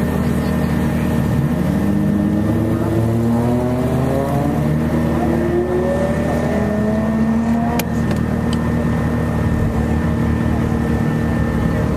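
A car engine idling close by, while another car accelerates hard away from the autocross start, its engine note rising in several steps as it shifts up over about six seconds. A sharp click comes shortly after.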